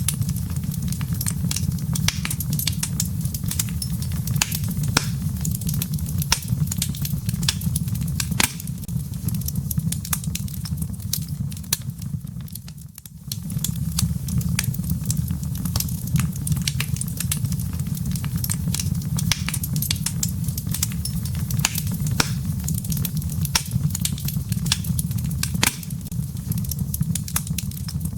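Wood fire burning in a fireplace: a steady low rumble under frequent, irregular crackles and pops of burning firewood. The sound dips briefly about halfway through, then carries on as before.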